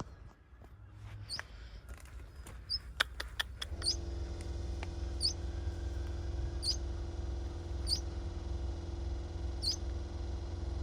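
A small bird giving short, high-pitched cheeps, one about every second and a half. A run of clicks and knocks comes first, and a steady low hum sets in about four seconds in.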